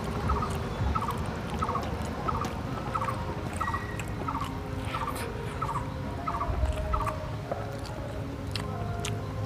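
A bird calls over and over in the background with short repeated notes, about two a second, and stops about seven seconds in.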